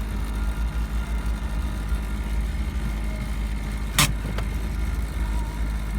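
2003 Ford Focus SVT's 2.0-litre four-cylinder engine idling steadily, with a vibration noise in the car that the owner places in the ceiling and says is not the engine. A single sharp click or knock sounds about four seconds in.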